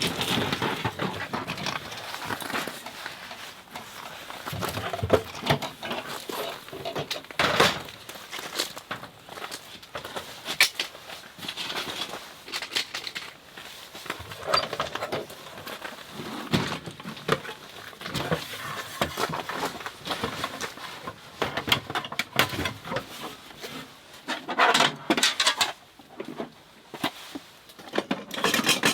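Camping gear being handled during setup: irregular rustling with scattered knocks and clicks.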